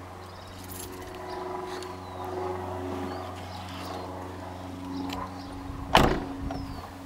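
Pickup truck engine running, heard from inside the cab, its pitch rising and falling a little as it drives. A single sharp knock comes about six seconds in.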